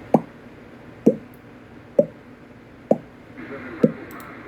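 A person making a row of mouth pops, five short plops a little under a second apart, each dropping in pitch like a water drip.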